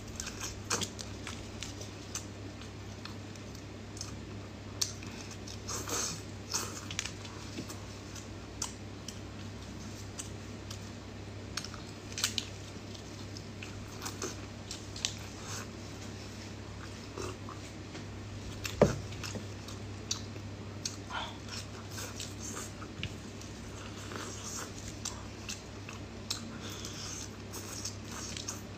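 Close-miked chewing and mouth sounds of someone eating boiled, shelled shrimp: soft wet smacks and small clicks scattered throughout, with one sharper click about nineteen seconds in. A steady low hum runs underneath.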